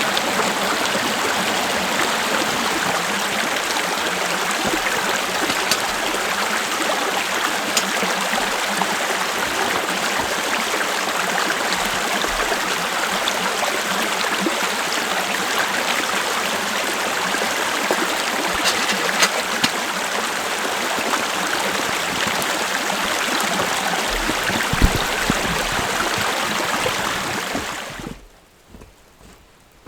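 Steady rushing of flowing water, like a stream, that cuts off abruptly near the end.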